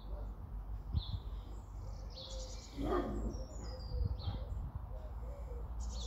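A small bird chirping: a string of short, high chirps, some stepping down in pitch, over a low outdoor rumble. About three seconds in there is a brief louder noise.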